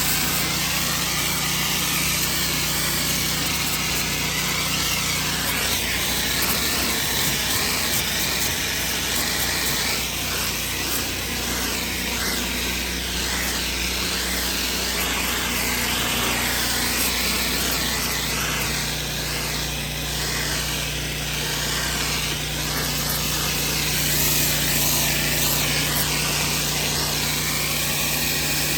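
A pressure washer at work: its engine hums steadily under the steady rush of the high-pressure water spray.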